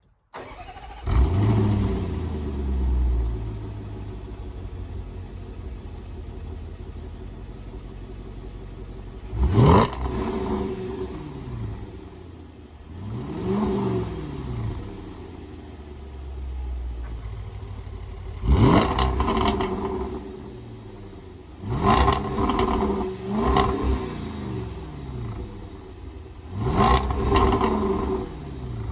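Range Rover Sport SVR's supercharged 5.0-litre V8 starting up with a loud flare about a second in, settling to idle, then revved in six short throttle blips through the exhaust, each rising and falling in pitch, two of them in quick succession.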